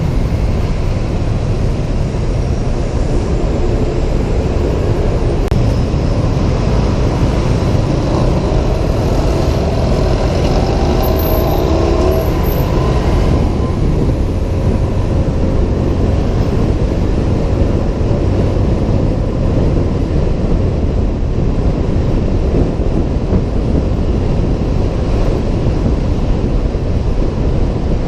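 Wind rushing over the microphone of a helmet camera on a moving motor scooter, with road traffic around it. An engine note rises and falls from about 8 to 13 seconds in.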